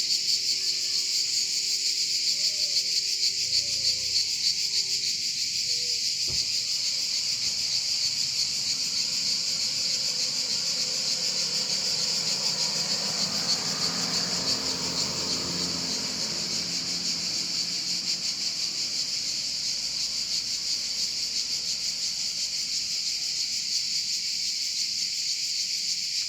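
Insects chirring in a steady, high, finely pulsing drone without a break. Partway through, a faint low sound swells and fades beneath it.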